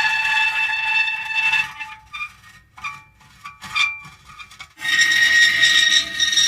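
Metal creaking and squealing in long, drawn-out pitched groans, broken for a few seconds in the middle by a handful of short, quieter creaks before another long creak sets in about five seconds in.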